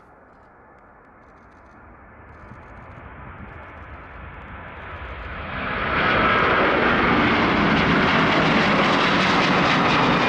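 Jet engines of a large widebody airliner at takeoff power on departure, growing steadily louder as it approaches and then holding loud and steady from about six seconds in.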